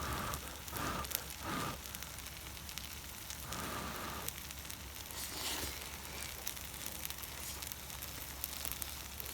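Food sizzling on a hot iron griddle: a steady hiss full of fine crackles, with a few brief louder sounds in the first two seconds and again about four seconds in.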